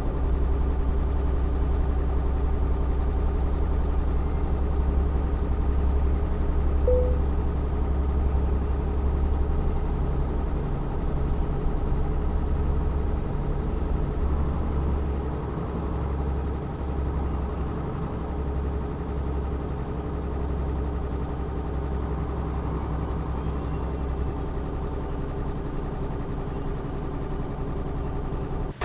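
Tanker truck's diesel engine running steadily with a deep low rumble, easing slightly in level about halfway through.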